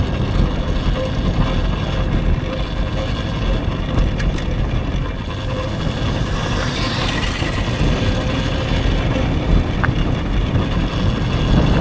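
Riding noise on an electric dirt bike: wind rumbling on the microphone and tyres running over dirt, with a faint steady hum from the bike.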